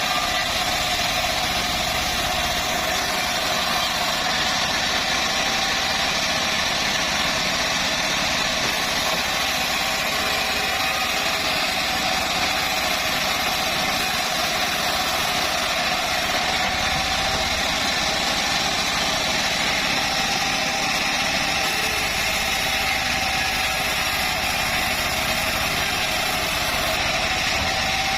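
Homemade band sawmill running steadily, a constant mechanical drone with a steady whine over it.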